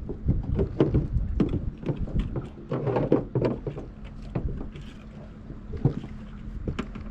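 Sounds aboard a fishing boat: a low steady hum with many irregular knocks and clatters over it.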